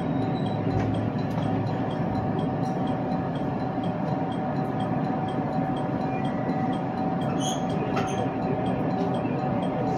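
Interior running noise of an electric commuter train, heard from just behind the driver's cab as it moves at slow speed: a steady rumble with a constant hum and a few faint clicks near the end.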